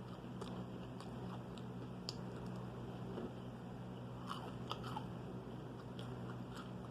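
Close-up mouth sounds of someone biting and chewing crispy fried fast food, with small wet crunches and clicks that come thickest about four to five seconds in, over a faint steady low hum.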